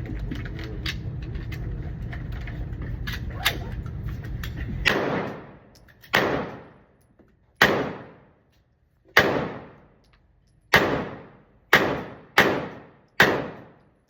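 FN 509 pistol fired eight times in slow, deliberate shots, the last few quicker, each crack trailing off in a short echo. Before the first shot a steady low rumble runs with a few faint pops.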